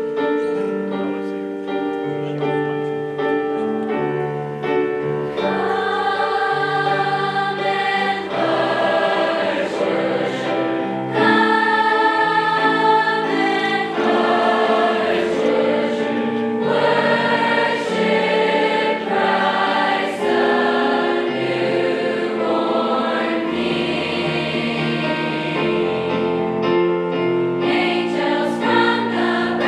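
High school choir singing a Christmas song in parts with accompaniment; the voices swell fuller about five seconds in.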